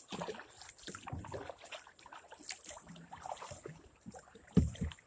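Kayak paddling: irregular paddle strokes splashing and dripping in the water, with a heavy thump about four and a half seconds in.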